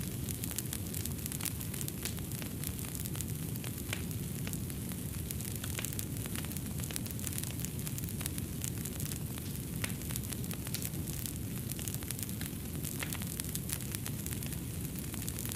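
Fireplace fire crackling, with frequent small irregular pops over a steady low rumble.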